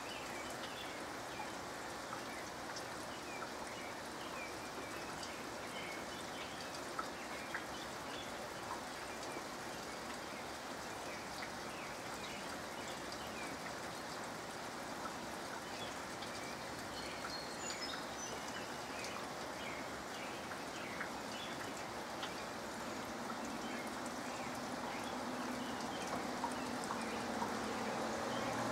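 Soft, steady rain falling: an even hiss of drops with scattered drips, and a few short bird chirps. Near the end a low hum comes in and grows louder.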